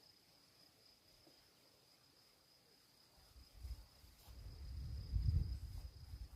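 Crickets trilling, a faint steady high-pitched chirring. From about halfway a low rumble rises, loudest near the end.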